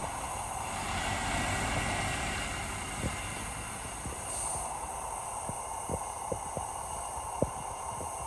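Heavy earthmoving machinery running steadily, with scattered sharp clanks and knocks in the second half.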